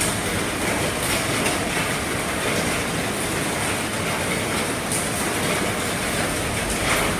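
Heavy rain drumming steadily on an RV's roof, a dense even hiss with a few sharper drop hits standing out.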